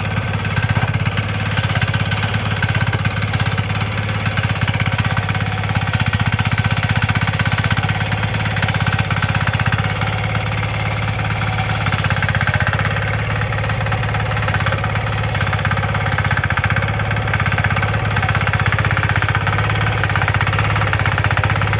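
The small single-cylinder diesel engine of a Kisankraft KK-IC250D 5 HP power weeder running steadily, with a rapid, even knocking beat that holds without change.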